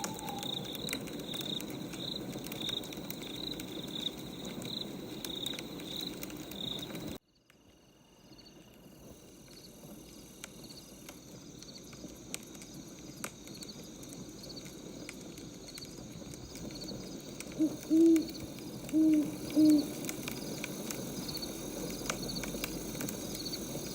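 Ambient night soundscape: a wood fire crackling under a steady, regular chirping of insects. The sound drops out suddenly about seven seconds in and slowly fades back. Near the end, three low hoots of an owl are the loudest sounds.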